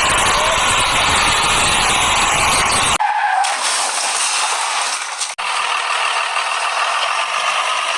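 Loud, noisy vehicle-like sound that changes abruptly about three seconds in, where the low rumble cuts out and a thinner hiss carries on.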